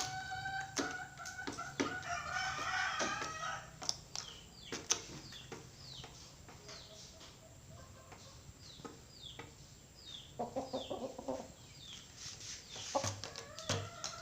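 Rooster calling while it eats flakes: a long drawn-out call over the first four seconds, a quick run of clucks later, and another call starting near the end, with sharp pecking taps scattered throughout.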